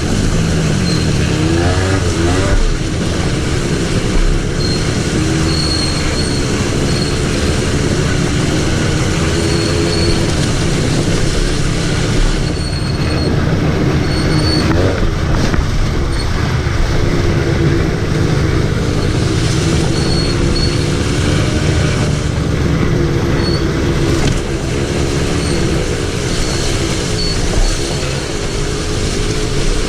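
ATV (quad) engine running while being ridden, its revs rising and falling over and over with the throttle.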